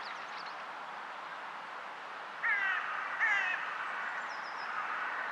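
Two short, harsh bird calls, one about two and a half seconds in and another about three seconds in, each falling slightly in pitch, over a steady background hiss, with faint high chirps from other birds.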